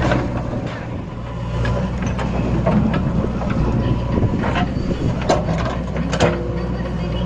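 Tractor engine running steadily under load, with a handful of sharp clanks or knocks.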